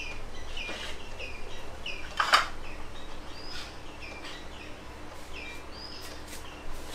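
A bird chirping repeatedly in short chirps, every half second or so. About two seconds in there is one sharp clink of crockery.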